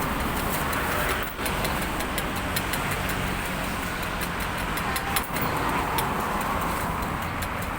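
Steady street noise, with road vehicles running past and idling, and light ticking over it.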